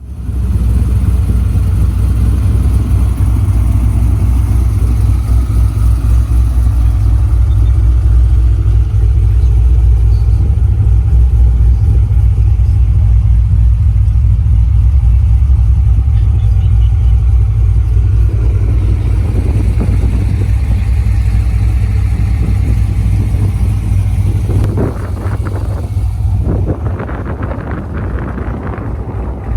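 2008 Chevrolet Corvette Z06's 7.0-litre LS7 V8 running at a steady idle with a deep low drone. Irregular noise joins it in the last few seconds.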